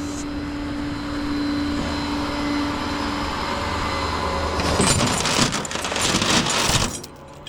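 Vehicle engine running with a steady hum. About two-thirds of the way in comes a couple of seconds of loud rattling and clattering, which cuts off abruptly near the end.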